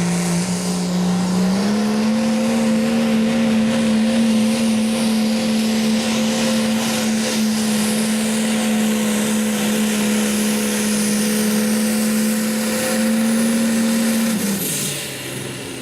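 Hot farm class pulling tractor's engine running at high rpm under load during a pull. Its pitch steps up about a second and a half in, holds steady, then falls near the end.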